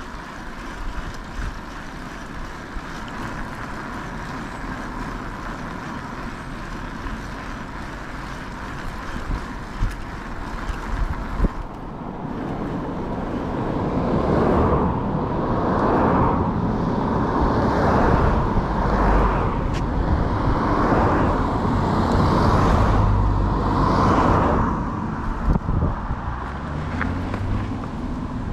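Wind and road noise on an action-camera microphone while riding an electric bike along a road. It grows louder about halfway through, swelling and easing every second or two, then settles back near the end.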